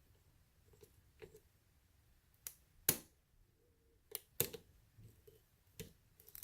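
Lock pick and tension wrench working the pins of a pin-tumbler lock: a handful of scattered sharp clicks and light scrapes, the loudest about three seconds in.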